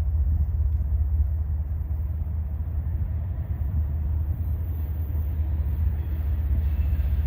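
Norfolk Southern freight train 276 with a low, steady rumble.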